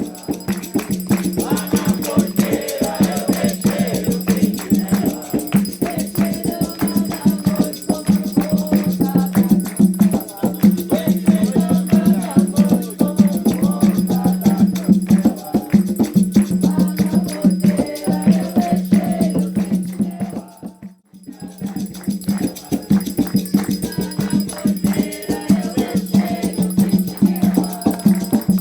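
A group of voices singing a chant over fast, steady rattle shaking. The singing and rattling break off briefly about two-thirds of the way through, then resume.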